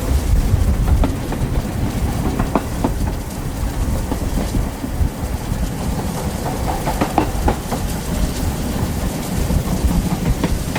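Train running on the track: a steady low rumble with scattered clicks and brief squeaks from wheels on rail.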